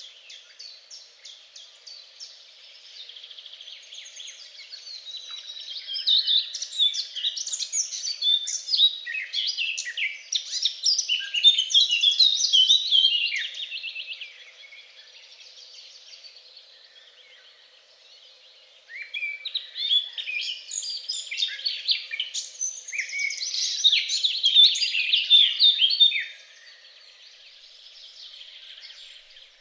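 Songbirds singing in fast, twittering phrases: two long loud bouts of song, the first about a third of the way in and the second past the middle, with fainter chirping between and after them.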